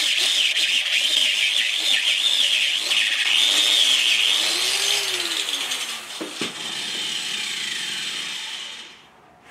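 Handheld power tool running under load with a wavering, hissy whine, then spinning down with a falling pitch before stopping near the end.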